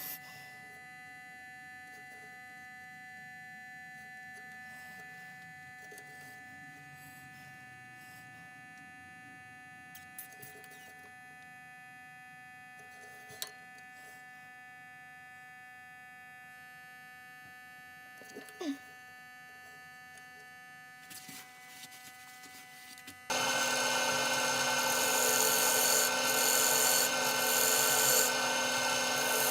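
Wood lathe running with a steady whine and a few faint clicks. About 23 seconds in, a loud, steady scraping starts as wood is worked on the spinning walnut blank.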